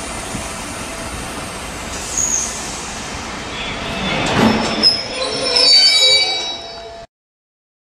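Pullman coaches rolling slowly past, a steady rumble from the wheels that grows louder, with high-pitched metallic squealing from the wheels between about four and six and a half seconds in. The sound cuts off suddenly near the end.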